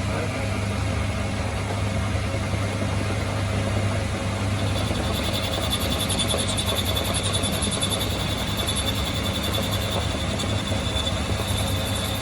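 A workshop machine running steadily with a low electrical hum; a high whine joins about four and a half seconds in.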